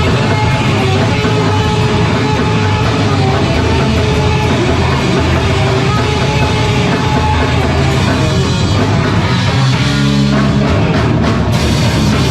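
Live heavy rock band playing loudly: distorted electric guitars, bass and a drum kit. About ten seconds in, the drums briefly drop away under a held, ringing chord before the band comes back in.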